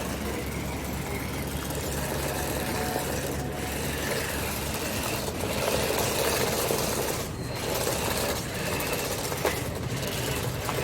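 Remote-control toy stunt car's small electric motors whirring steadily as it drives itself in demo mode.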